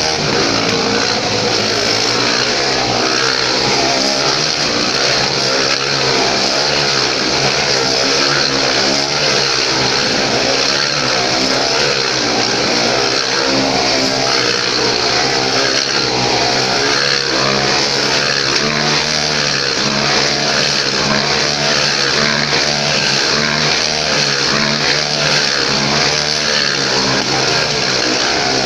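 Motorcycle engines running and revving continuously, with the pitch wavering up and down throughout.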